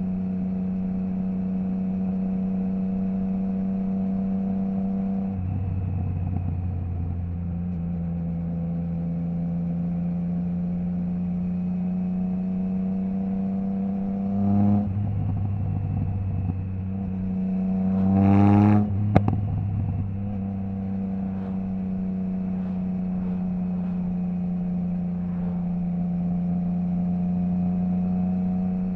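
Triumph Trident 660's three-cylinder engine through a Zard full exhaust with the baffle removed, running at a steady cruise. About halfway through the engine briefly revs up, and about two-thirds through it revs higher again and ends in a sharp crack.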